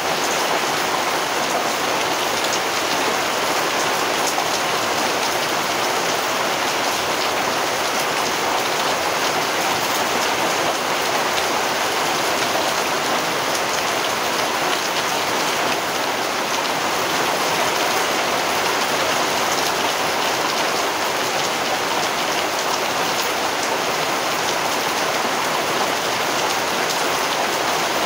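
Steady rain falling, an even hiss with the fine patter of many individual drops and no change in strength.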